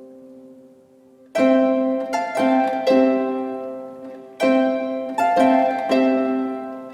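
Background music of plucked string notes, harp-like, each note ringing and fading. A held note dies away to a near pause about a second in, then two runs of notes follow.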